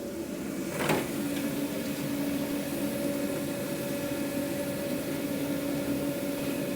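Steady electric hum of food-truck kitchen machinery, with one sharp knock about a second in.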